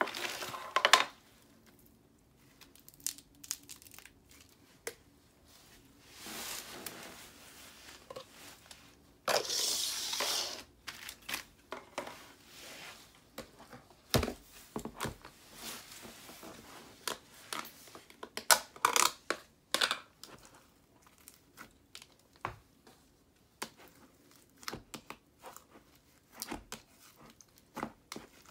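Slime being handled and plastic containers moved about: irregular bursts of crinkling and tearing, sticky crackles and a few sharp plastic clicks, with quiet gaps between. The longest burst is a rustling stretch about ten seconds in.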